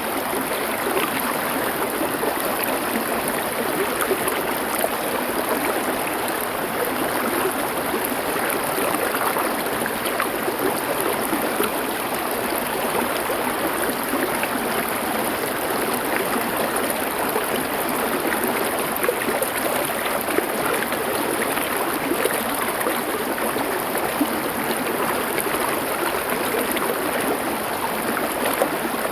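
River water flowing over stones, a steady rushing sound with no break.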